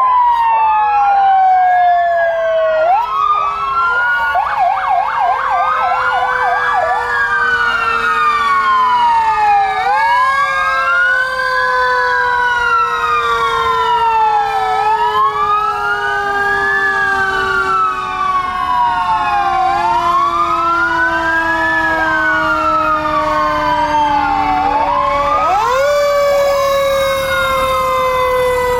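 Several fire truck sirens sounding together. One wails up and down about every two and a half seconds, another switches briefly to a fast yelp a few seconds in, and under them runs a long tone that slowly falls in pitch and jumps back up twice.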